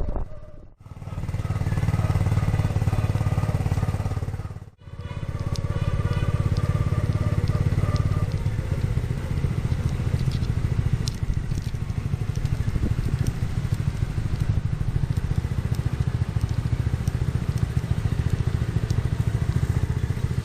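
Restored Honda 70cc single-cylinder four-stroke motorcycle engine running steadily, with a low, rapid, even beat. The sound cuts out sharply for a moment about one second in and again about five seconds in.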